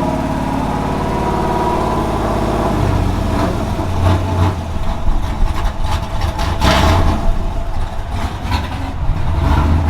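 Pickup truck's V8 engine running, with several sharp clicks or pops over it in the second half.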